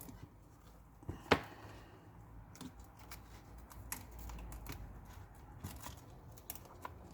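Scattered small clicks and taps of hand tools prying and picking at a cracked iPad screen's broken glass, with one sharper click about a second in.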